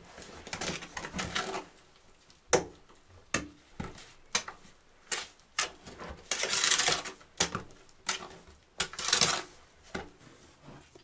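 Masonry hand work: irregular sharp taps and knocks, with two longer scraping strokes about six and nine seconds in.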